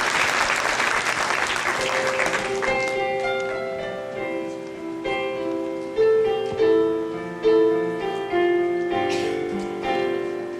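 Audience applause dies away over the first two or three seconds. Then a piano introduction begins, with slow, ringing chords and melody notes that lead into a song.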